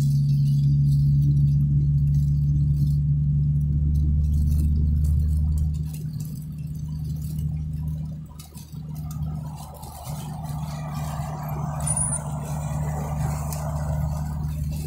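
Steady low drone of a car's engine and road noise heard from inside the cabin. It eases off about six seconds in, and a softer rushing noise rises near the end.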